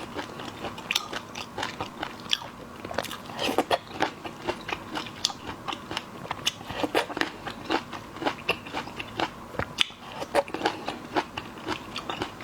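Close-miked eating of seafood: steady crunching and chewing, made of many short, irregular crackling clicks.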